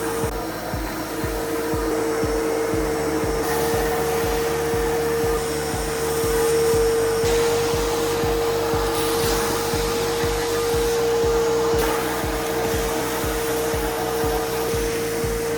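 Steady machine whine of floor-grinding equipment, like a concrete grinder or its dust-extraction vacuum, under background music with a steady beat.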